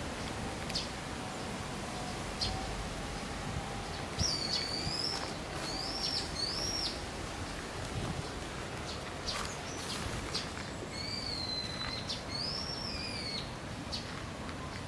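A bird calling outdoors: short, high, arched whistled notes, three in quick succession about four seconds in and two more a few seconds later, over a steady background hiss with a few faint clicks.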